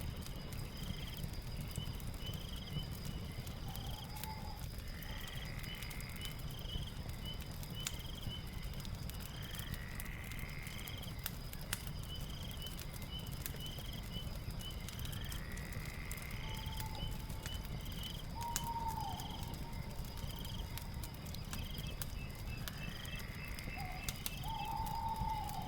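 Night ambience of a fireplace crackling with a low rumble, under a steady insect drone with rows of quick chirps. A rising animal call repeats about every five seconds, with a few shorter calls in between.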